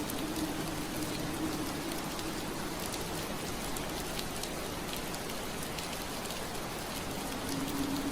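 Steady rain on a window pane, an even hiss with many small drop ticks. A low hum underneath fades out about a second in and returns near the end.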